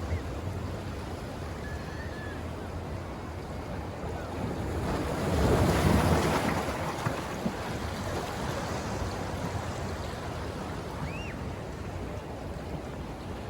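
Ocean waves washing in, with one louder surge about five seconds in that fades over the next couple of seconds, and wind on the microphone.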